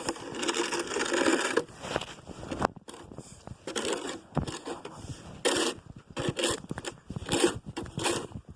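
Snow crunching and scraping in short, irregular strokes, about one or two a second, with a longer scrape in the first second and a half.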